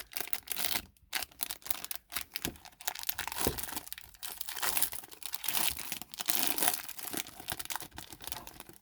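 A 2023 Bowman Jumbo baseball card pack wrapper being torn open and crinkled by hand: irregular crackling rustles that keep on until it is open.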